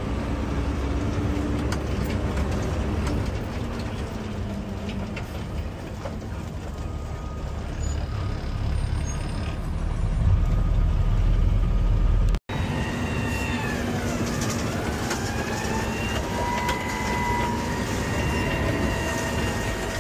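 Garbage truck's diesel engine running steadily, heard from inside the cab. The sound breaks off for an instant about twelve seconds in, and faint whining tones glide up and down after that.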